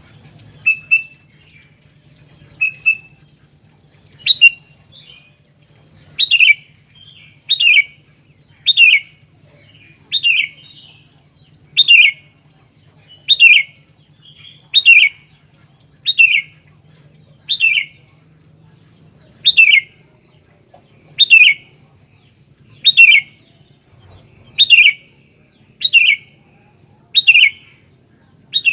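Sooty-headed bulbul (kutilang) calling: a few soft paired notes, then from about four seconds in a loud, sharp, falling call repeated about every second and a half. A faint steady low hum runs underneath.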